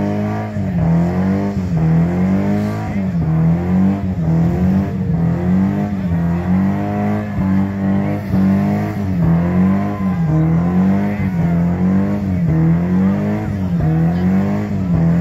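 Nissan car's engine revving hard in a burnout, its pitch rising and falling about once a second as the spinning rear tyres pour out smoke.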